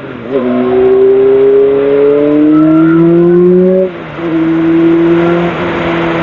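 Sportbike engine pulling hard, its pitch climbing steadily for about three seconds. Near four seconds it drops and dips briefly, as at an upshift, then carries on steady and a little rising.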